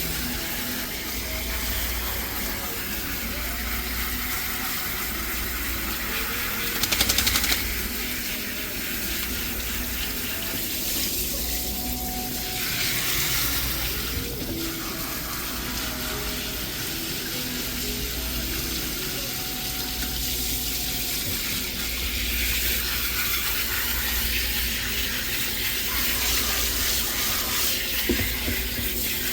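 Water running from a tap, rinsing shampoo off a dog during its bath; the flow is steady, with a brief louder spell about seven seconds in.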